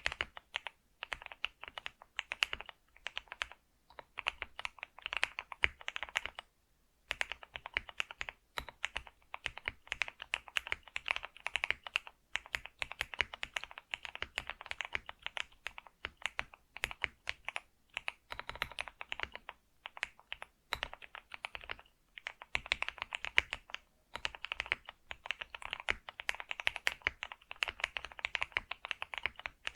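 Computer keyboard being typed on steadily, a rapid run of key clicks with a couple of brief pauses.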